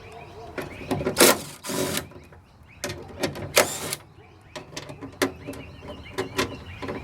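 Clicks, knocks and short rasping scrapes of hand tools and metal parts being worked inside a car door while the window regulator is unbolted. The loudest are two brief rasps about a second and a half in, and another near four seconds in.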